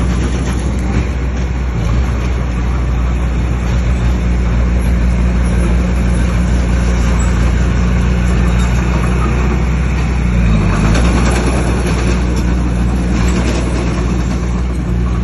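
Bulldozer's diesel engine running steadily under load, its note dipping briefly and recovering about two-thirds of the way through.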